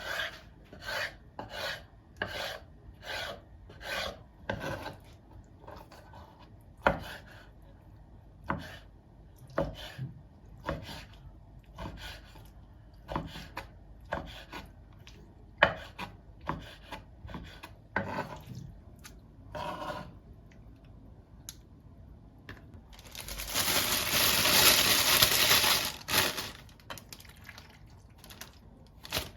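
Repeated rubbing or scraping strokes by hand, about one a second at first and then more irregular, with a steady hiss lasting about three seconds some two-thirds of the way through.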